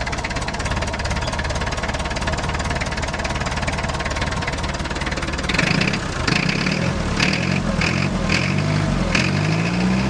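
Perkins 4203 four-cylinder diesel of a 1962 Lancing Bagnall forklift running after being brought back from a no-start. From about five and a half seconds in, its speed rises and falls repeatedly, with a rhythmic rattle over the engine note.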